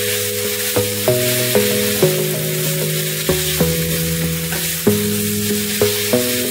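Chicken livers sizzling in a skillet as they are stirred with a wooden spoon, under melodic music whose notes change about every half second.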